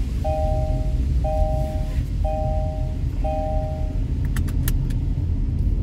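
Car's warning chime beeping about once a second, each beep a steady two-note tone, four times before it stops about four seconds in; a few sharp clicks follow, over a steady low rumble.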